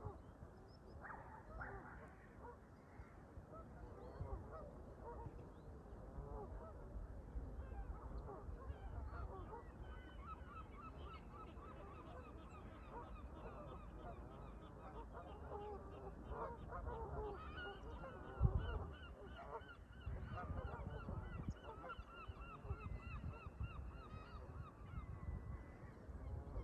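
A flock of Canada geese honking, many calls overlapping and growing busier after the first few seconds. A low wind rumble runs underneath, with one sharp thump about two-thirds of the way through.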